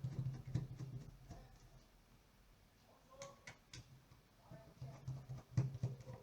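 Irregular clicks and light knocks of hand work on a small device, in two clusters, one at the start and one near the end, with a few faint squeaks in between.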